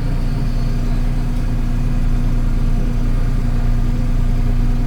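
Kubota L3560 compact tractor's diesel engine running steadily at a constant speed.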